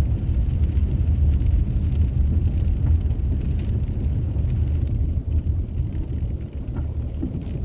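Car driving, heard from inside the cabin: a steady low rumble of engine and road noise that eases off toward the end.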